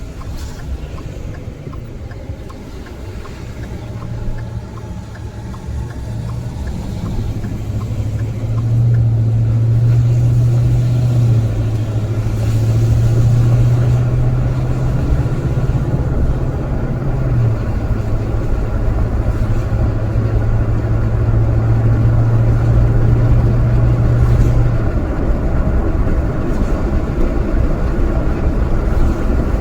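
A steady low engine hum over a constant rumble, swelling louder over the first ten seconds; the hum drops away about 25 seconds in while the rumble carries on.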